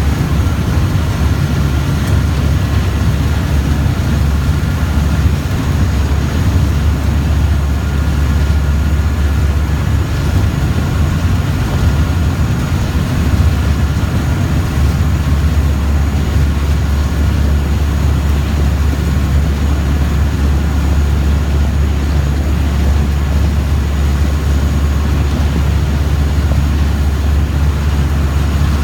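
A river boat's engine running steadily, heard on board as a loud, unchanging low drone with a faint higher hum.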